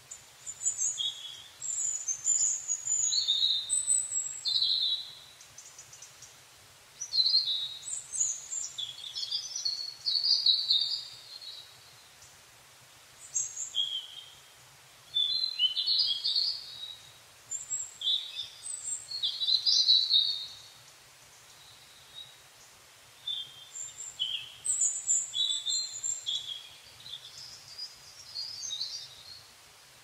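Birdsong: high, warbling phrases lasting a few seconds each, with short pauses between them, over faint steady background noise.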